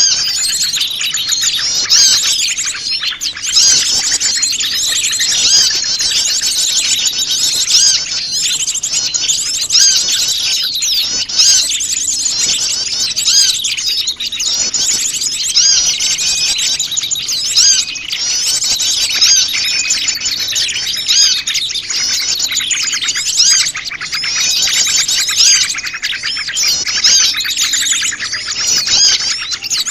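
A dense, noisy chorus of many small wild birds chirping and twittering at once, many calls overlapping without pause: a mixed small-bird lure recording of the kind played to draw wild birds in.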